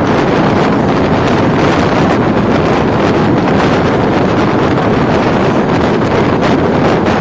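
Steady loud rushing of a passenger train running at speed, with heavy wind buffeting the microphone.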